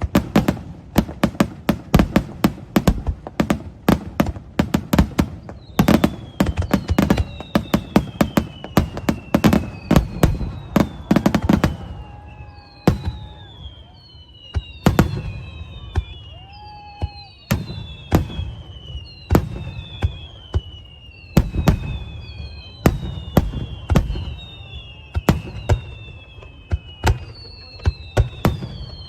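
Fireworks display: a rapid barrage of bangs, thinning out after about five seconds into separate bangs mixed with a string of whistles that each fall in pitch, one about every second and a half.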